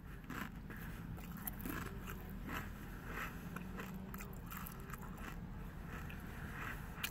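Close-up chewing of a mouthful of tortilla chip with the mouth closed: soft crunches about twice a second.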